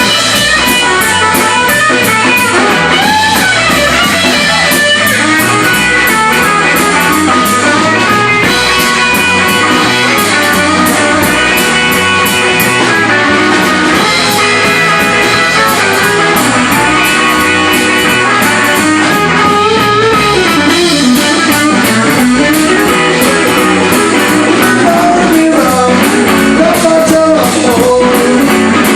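Live blues-rock band playing loudly and steadily, led by guitar over a drum kit.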